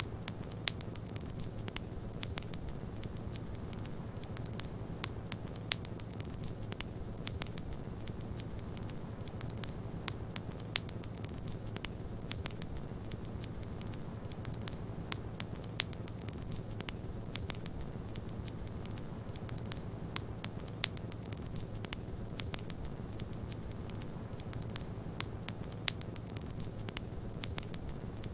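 Wood fire crackling, with irregular sharp pops, a few louder than the rest, over a steady low rushing noise that stands for snowstorm wind.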